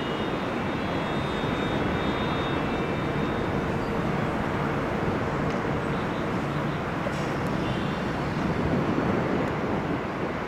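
Steady rumble of a passenger train hauled by an HXD1D electric locomotive rolling along the line, heard from a distance mixed with city noise. A few high steady tones fade out about three seconds in.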